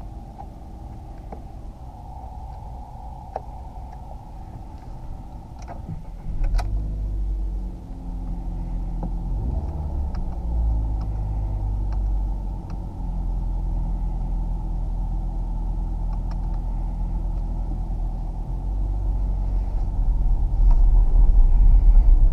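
Inside the cabin of a Ford KA+ with its 1.2-litre four-cylinder petrol engine: a few sharp clicks, then about six seconds in the engine starts and settles into an idle. Near the end the engine grows louder as the car pulls away.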